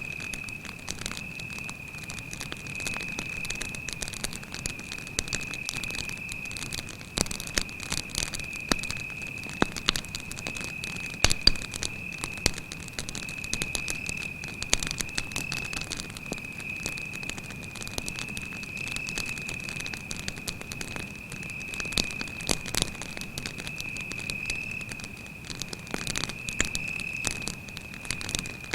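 Wood campfire crackling with irregular sharp pops, over crickets chirping in a steady high-pitched trill.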